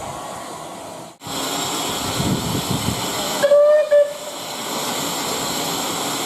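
Steam locomotive letting off a steady hiss of steam, with a short whistle blast about halfway through, followed by a brief second toot.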